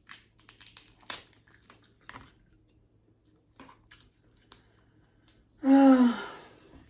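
Snow crab shell being cracked and picked apart and the meat eaten: a string of small sharp crackles, clicks and crunches. Near the end comes a short voiced sound that falls in pitch.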